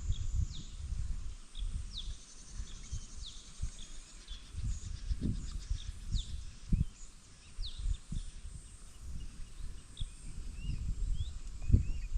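Small birds chirping over and over in short, quick notes, with a faint fluttering trill early on. Under them runs a low, uneven rumble with a few soft thumps.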